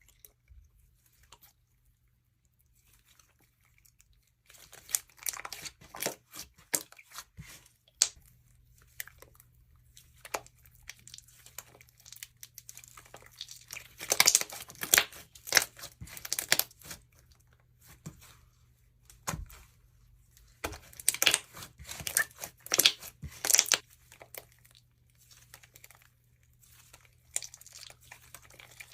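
Jewelry slime, packed with beads and charms, being squeezed and pressed by hand, giving dense crackling and clicking in several spells with quieter pauses between them.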